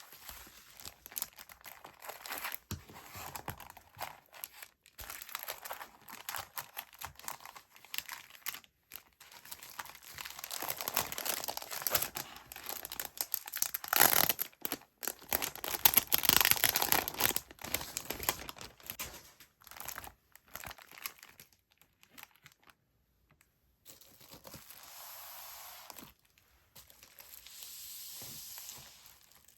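Paper rustling and crinkling in irregular bursts as stationery items are handled, loudest about halfway through and softer near the end.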